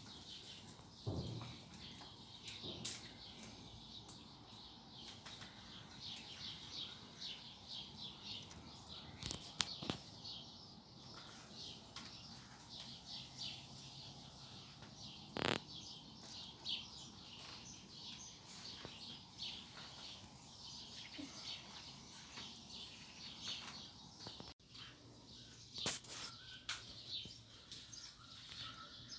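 Many small birds chirping and twittering continuously, with a few sharp snaps or knocks scattered through it.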